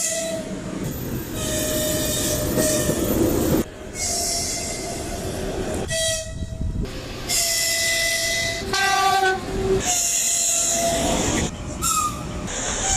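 Train air horns (typhons) and whistles of several different trains, one blast after another over the rumble of moving trains, changing abruptly every second or few as the clips cut.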